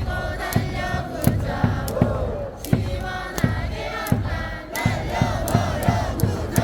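Baseball crowd chanting a cheer song in unison over amplified stadium cheer music, with a steady beat of about three thumps a second.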